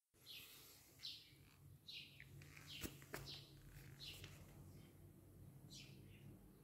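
Faint chirps from a small bird, repeated about once a second, each a short downward note. Two sharp clicks come about three seconds in.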